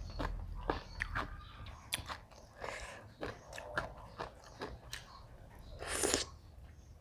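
A person chewing and biting a mouthful of a som tam (papaya salad) meal close to the microphone: irregular crunchy clicks and wet crackles. A louder short hiss-like noise comes about six seconds in.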